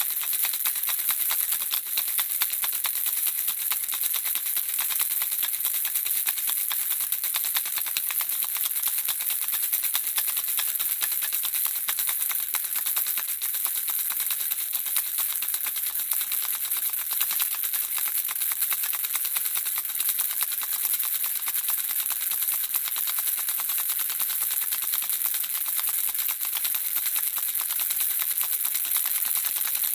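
Handheld baby rattle shaken without a break: small objects inside click in a dense, steady, mostly high-pitched stream.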